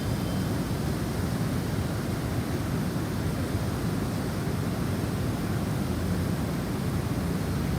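Snowstorm wind blowing as a steady, deep rush, heaviest in the low end, with no pauses or gusts standing out. Faint high wind-chime tones sound briefly right at the start.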